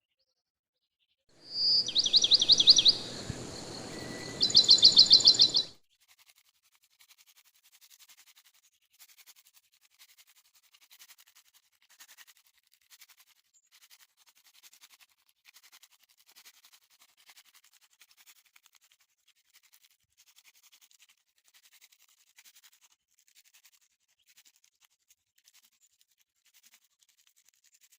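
A bird calling in two rapid high trills, about two seconds and about four and a half seconds in, over a rushing background noise. This stops suddenly after about six seconds, leaving faint scattered ticking.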